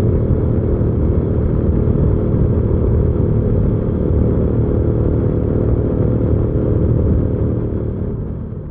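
Hyosung GV300S Aquila 300's V-twin engine running steadily under way. The sound fades out over the last second.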